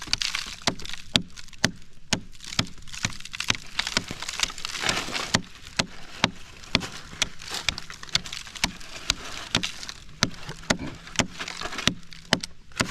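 Irregular sharp knocks and scraping as a hand tool chips and digs into the hard, wood-like earth of a termite mound.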